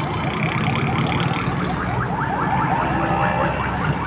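Many small birds chirping at once: a dense, overlapping chatter of short rising calls, over a steady low rumble.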